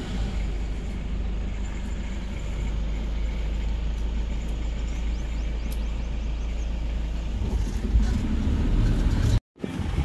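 Vehicle driving along a park road: steady engine and road rumble, louder near the end, then cut off abruptly for a moment.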